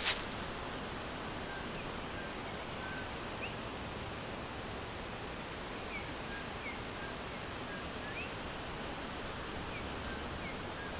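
Small birds chirping faintly, short scattered chirps over a steady hissing background, with one brief sharp rustle or crack right at the start.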